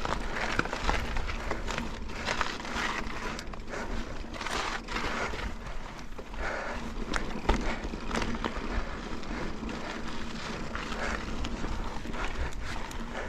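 Mountain bike rolling over slickrock: steady tyre noise on rock, with frequent small clicks and knocks from the bike rattling over the bumps.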